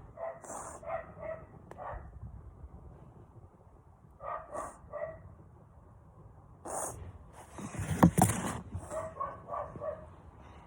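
A dog barking and yipping in several quick groups of short barks. A louder noisy burst comes about eight seconds in.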